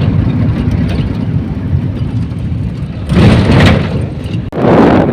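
Steady low rumble of a moving vehicle's engine and road noise heard from inside, with two louder rushes of noise about three and four and a half seconds in.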